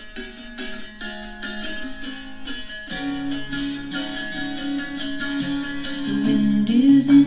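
Instrumental intro of a recorded song played back through a small Bluetooth speaker: strummed and plucked strings, with a bass line coming in about three seconds in and the music growing a little louder.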